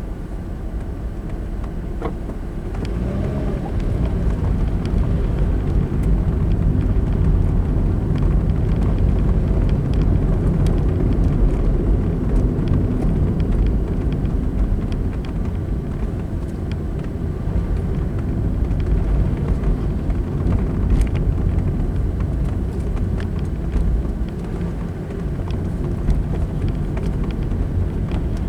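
Car driving along a road: a steady low rumble of engine and tyres, growing louder a few seconds in as the car picks up speed.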